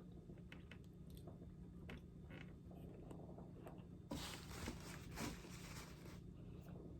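Faint chewing and mouth clicks, then about four seconds in a louder crunching of apple being bitten and chewed, lasting about two seconds.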